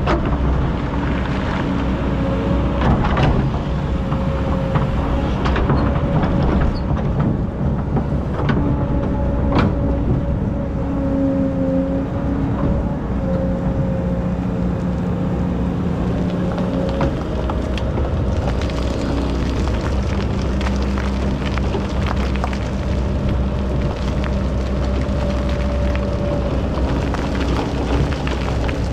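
Excavator's diesel engine and hydraulics running under load, the pitch of its whine stepping up and down as it works. A few sharp knocks in the first ten seconds.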